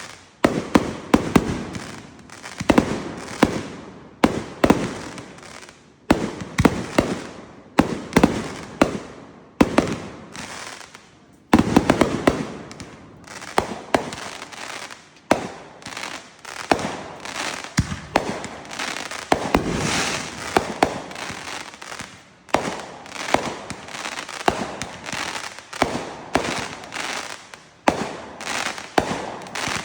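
Consumer fireworks going off in a rapid series of sharp bangs and crackles, each with a short echoing tail. The bangs come thick and fast, several a second at times.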